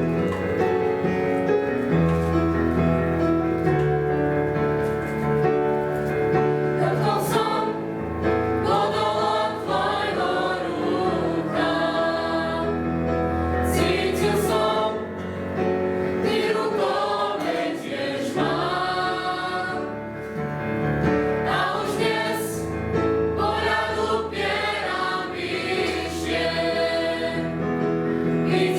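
A youth choir singing a Christian worship song in phrases over sustained low bass and keyboard accompaniment.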